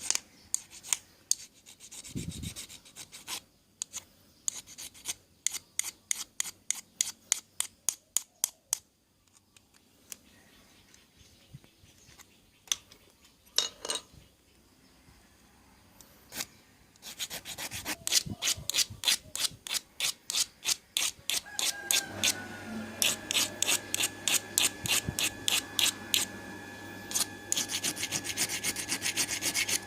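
A hand file scraping back and forth over the brass lower post of a pressure lantern, in quick, even strokes, two or three a second, with a few pauses between runs. About two-thirds of the way through, a steady low hum starts underneath.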